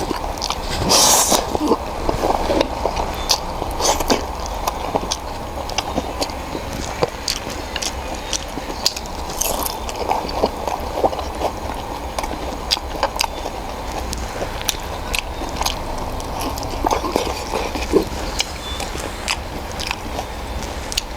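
Ramen noodles being eaten close to the microphone: biting and chewing with frequent small wet clicks, over a steady low hum.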